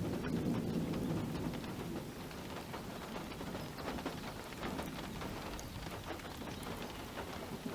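Heavy rain falling, with many individual drops pattering and ticking on a surface. A low rumble of thunder swells in the first second or so, then fades.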